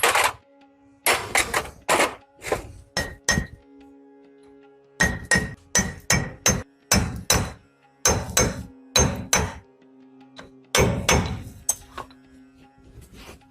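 Hammer blows on metal, about twenty sharp strikes in uneven runs separated by short pauses, some leaving a brief ring.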